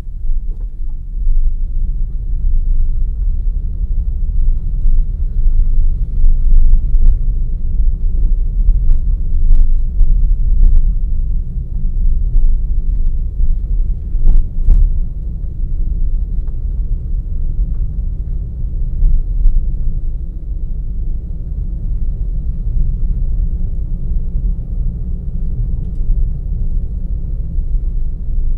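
Car driving along a forest road: a steady low rumble of engine and tyres, with a few sharp knocks about a quarter to halfway through.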